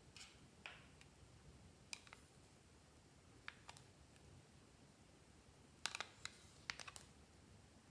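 Clear slime being pressed and kneaded by hand, giving small, sparse sticky clicks and pops, with a quick cluster of them about six seconds in.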